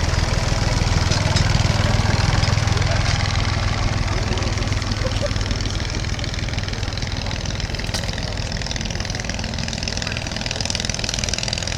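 Small vintage light aeroplane's piston engine running steadily in flight, loudest over the first few seconds and then easing off a little as it draws away.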